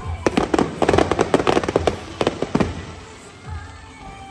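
Aerial fireworks going off in a rapid string of sharp bangs and crackles for about two and a half seconds, then dying away.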